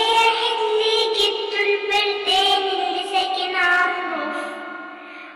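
A child's voice singing a children's nursery song in sustained, melodic phrases with long held notes.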